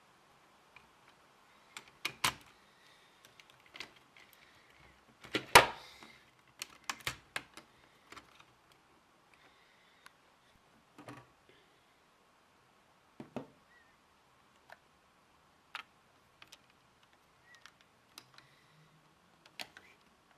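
Plastic Lego parts of a brick-shooting rifle mechanism clicking and clacking as they are handled. One sharp clack about five and a half seconds in is the loudest, with a cluster of clicks around it, and there are sparse single clicks after that.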